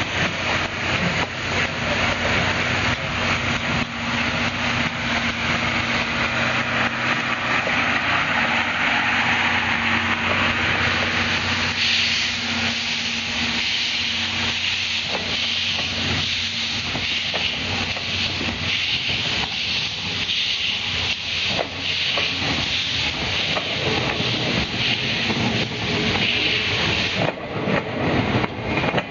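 C57 steam locomotive pulling out under steam: a loud, steady hiss of escaping steam over repeated exhaust beats, with the hiss turning brighter and sharper about twelve seconds in.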